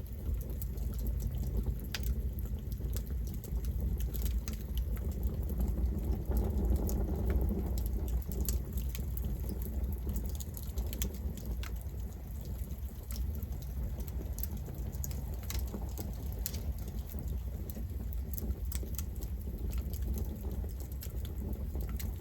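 Campfire burning, a steady low rush of flames with scattered sharp crackles and pops of burning wood.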